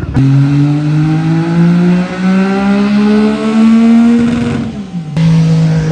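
Sport motorcycle engine running on a dyno, its pitch climbing steadily for about four seconds under load, then dropping away, before a steady engine note takes over near the end.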